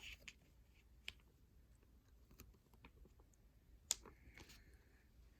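Near silence: room tone with a few faint, sharp clicks, the loudest just before 4 seconds in.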